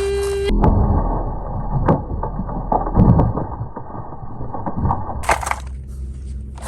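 Irregular crunching knocks and thumps over a low rumble, the loudest about two and three seconds in. A steady tone cuts off suddenly at the start, and a short burst of hiss comes near the end.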